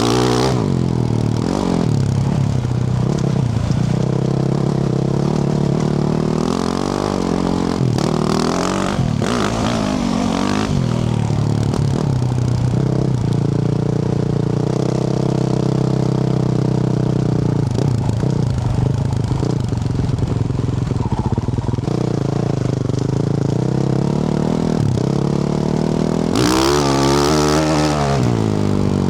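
Yamaha YZ450F's single-cylinder four-stroke engine through a Yoshimura RS-12 exhaust, revving up and down repeatedly as the dirt bike is ridden, with a hard high rev near the end.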